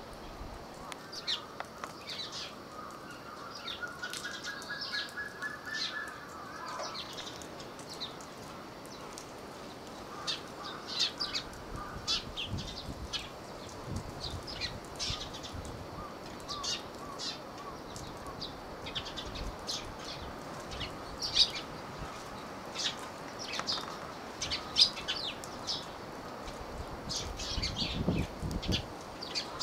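Small birds chirping: many short, high chirps scattered throughout, with a slow rising pulsed note about four seconds in and a low rumble near the end.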